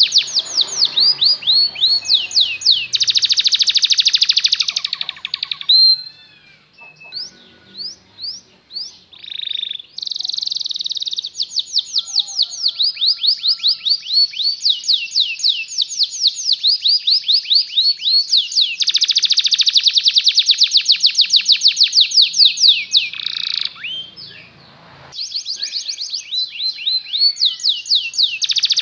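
Domestic canary singing a long song of rapid trills: fast runs of repeated sweeping notes, one run after another. There is a sparser, quieter passage of scattered single notes between about six and ten seconds in, and a brief pause about three-quarters of the way through.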